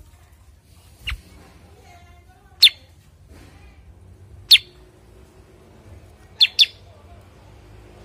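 Cucak kurincang songbird giving short, sharp whistled chips, each sweeping quickly downward, about every two seconds, with a quick double note near the end.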